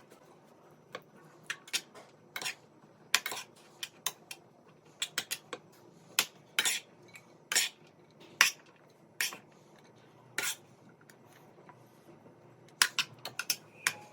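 Cutlery clinking against plates and dishes in sharp, irregular knocks, a couple of dozen in all, with a short pause about two-thirds of the way through.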